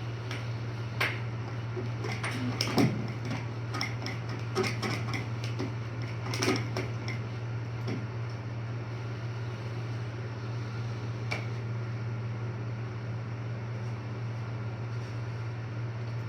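Air hockey table's blower running with a steady hum, and scattered sharp plastic clacks of the puck being struck and hitting the rails, most of them between about 1 and 8 seconds in and one more near 11 seconds.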